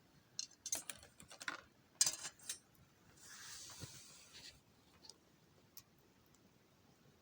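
Wood fire crackling, with a quick run of pops and snaps in the first few seconds, a brief hiss just after the middle, then only occasional single pops.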